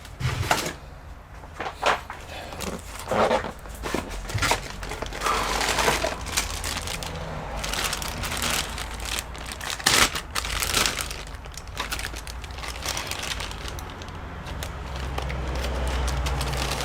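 Hand-handling noises at a workbench: irregular clicks, taps and crinkling rustles as computer parts and RAM modules are picked up and moved, over a steady low hum.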